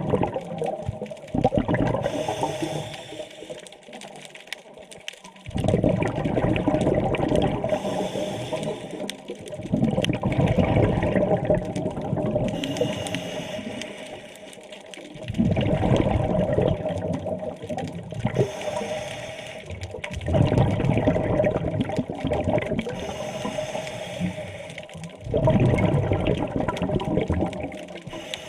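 Scuba diver breathing through a regulator underwater: a gush and rumble of exhaled bubbles about every five seconds, with a quieter hiss of inhalation between.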